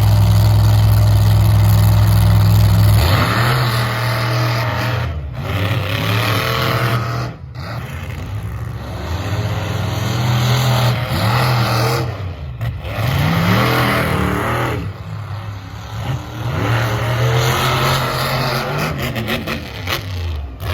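Monster truck engine at high revs. It holds a steady, loud note for the first three seconds or so, then revs up and down again and again, cutting out abruptly several times.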